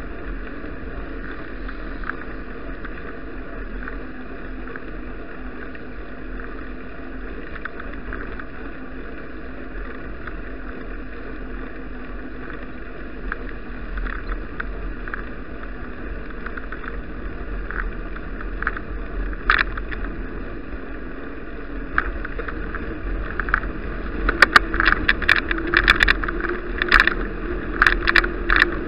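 Bicycle ride recorded on an action camera: steady wind and rolling noise with a low rumble, then a run of sharp rattling clicks over the last few seconds.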